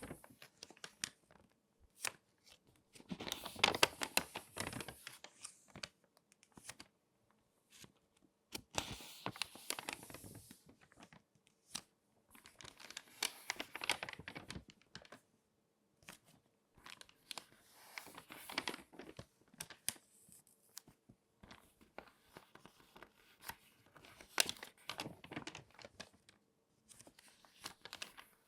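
Crinkly magazine pages crackling and crinkling as they are folded and creased by hand, in bursts of a second or three with short pauses between them.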